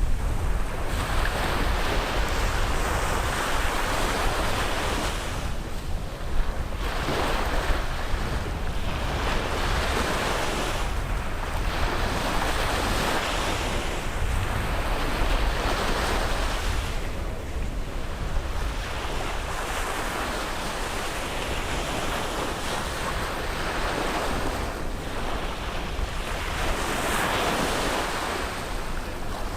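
Ocean waves breaking and washing up the shore. The surf swells and eases in a rolling rhythm, with a wave about every five to six seconds.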